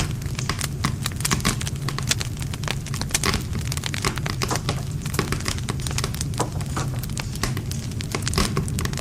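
Wood campfire burning, with dense irregular crackles and sharp snaps of burning wood over a steady low rumble of the flames.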